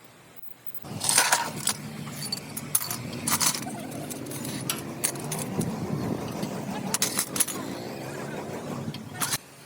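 Metallic clinks and rattling, sharp and irregular, over a steady low hum; it starts about a second in and cuts off suddenly near the end.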